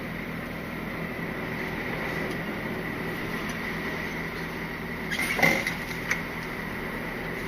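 Steady drone of a Scania R450 lorry on the move, heard from inside the cab: the 13-litre six-cylinder diesel engine and road noise, with a thin steady whine. A short clatter about five seconds in.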